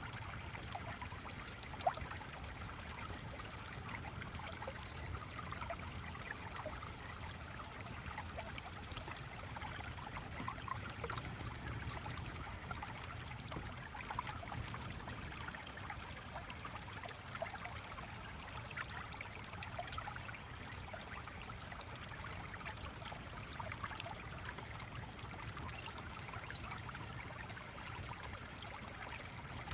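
Steady trickling, flowing stream water, with a single short click about two seconds in.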